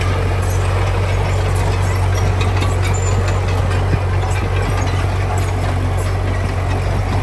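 Heavy diesel engine of earthmoving machinery running steadily at an even pace, with a strong low hum and scattered light clicks.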